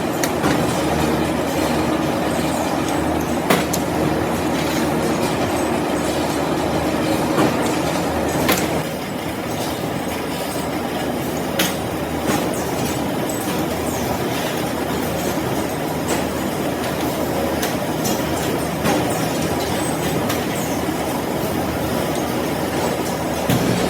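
Workshop machinery running with a steady rattle, broken by a few sharp metallic clicks and knocks.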